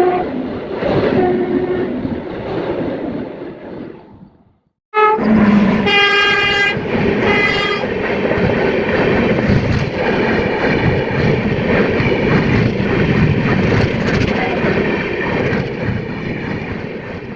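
An Indian Railways train running past and fading away, then a fresh pass: a locomotive horn sounds in several blasts and the train rushes by with wheels clattering on the rails, fading near the end.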